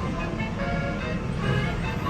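Stinkin' Rich video slot machine playing its free-spin bonus music: a run of short electronic chime notes over a low, steady rumble of background noise.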